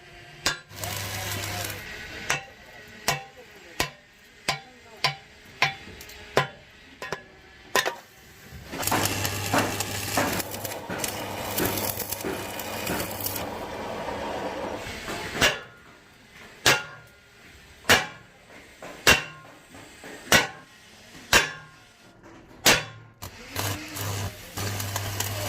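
Hammer blows on the steel of a truck's rear axle tube, a strike every second or so, faster in the first few seconds. Between the blows come three stretches of electric arc welding: a crackle over a steady low hum.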